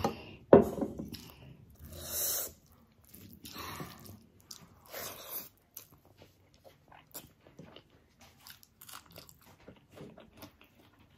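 Close-miked chewing and mouth sounds of someone eating rice and egg curry by hand, in short bursts and small smacks. A sharp knock about half a second in is the loudest sound.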